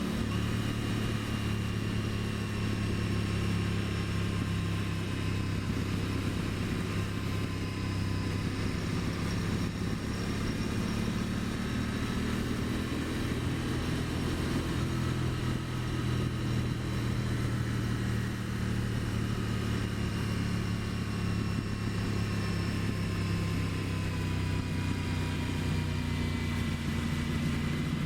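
2023 Aprilia Tuono 660's parallel-twin engine running steadily under way, its pitch drifting only slightly up and down.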